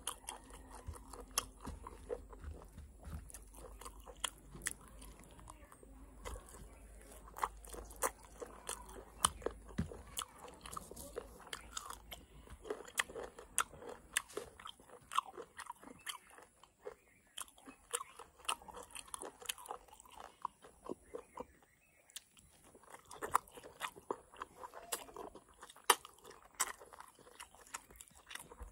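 A person chewing and biting mutton curry and rice close to the microphone: irregular wet mouth clicks and crunches, with a bite into a green bean near the end.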